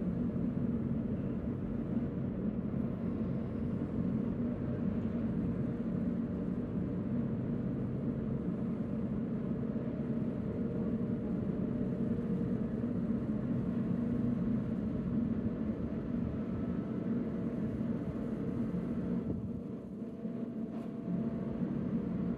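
Steady low rumble and droning hum of a cruise ship's machinery as it gets under way. The rumble eases briefly near the end.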